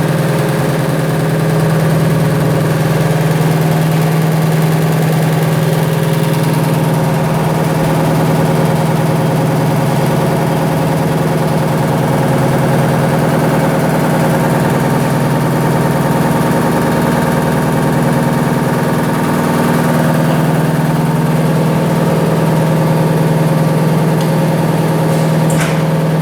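Vibrating-discharge vortex washing machine running with a steady, loud mechanical hum, with a short rattle near the end.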